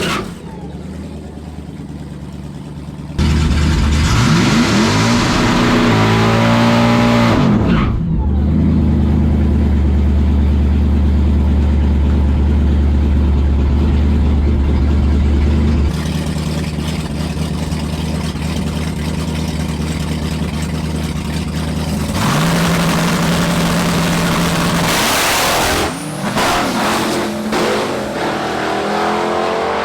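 Drag car's 800-horsepower crate engine making a full-throttle pass. It is quieter at first, then comes in hard about three seconds in with rising revs as the car launches, and holds loud and steady until it drops back about sixteen seconds in. More engine sound and a rising whine follow near the end.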